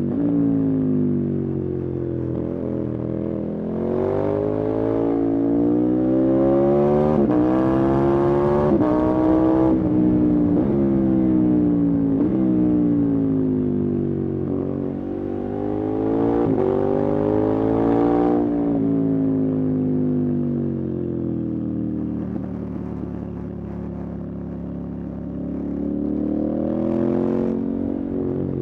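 Motorcycle engine running under way, its pitch climbing and falling several times as it is revved up and eased off: rising from about four seconds in to around nine, dropping, then rising again around fifteen to eighteen seconds before falling away.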